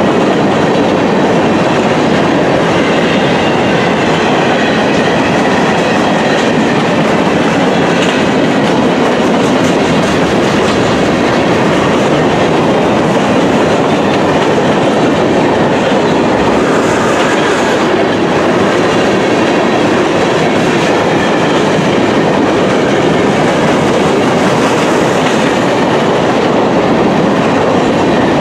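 Train cars rolling past: a steady, loud noise of steel wheels on rail that holds at the same level throughout.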